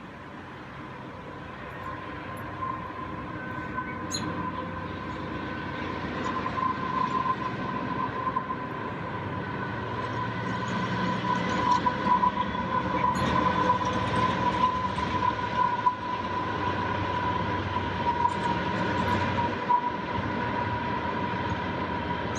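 A train rolling past, growing louder over the first dozen seconds, with a thin steady squeal from its wheels running throughout.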